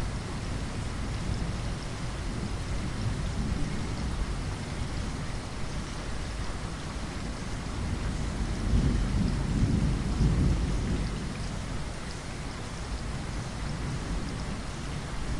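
Steady rain pattering against window glass, with a low rumble of thunder swelling about nine seconds in and fading by eleven.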